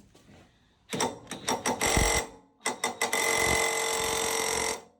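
Power impact wrench hammering at a stuck fastener that won't come off: several short bursts, then a steady run of about two seconds.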